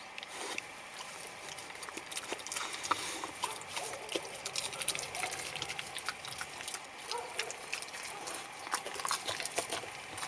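A dog eating noisily: a quick, irregular run of wet chewing and smacking clicks.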